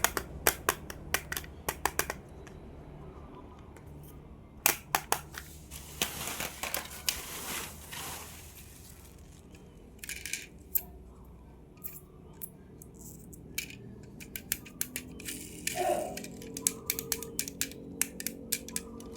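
Hands handling plastic toy cars and their packaging: clusters of sharp clicks and taps, with a stretch of plastic rustling partway through.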